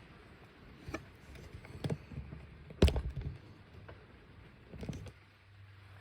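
A few short knocks and handling bumps about a second apart, the loudest about three seconds in, over a low steady hum.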